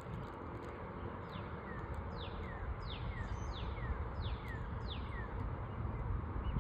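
A songbird singing a run of about seven quick falling whistled notes, evenly spaced, over a steady low outdoor rumble.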